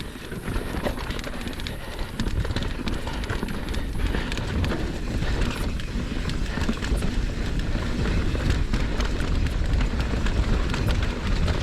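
Mountain bike descending a dirt trail: the tyres rumble over the ground and the bike rattles and clatters over bumps, with a steady rush of wind over the helmet camera.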